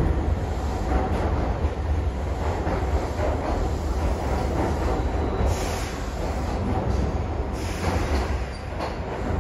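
Keihan 2600 series electric commuter train running, heard inside the car: a steady low rumble of wheels on rail, with two brief high-pitched screeches of the wheels, about halfway through and near the end.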